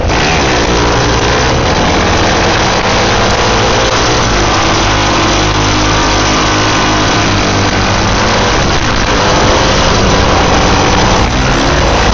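Single-cylinder dual-sport motorcycle engines running hard, their pitch rising and falling as they accelerate and ease off.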